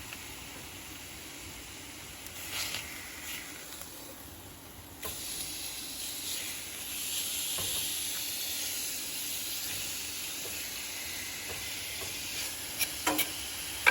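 Steak and onions sizzling in a cast iron skillet, frying in the steak's own fat. The sizzle steps up about five seconds in and grows louder, with a few sharp clicks near the end.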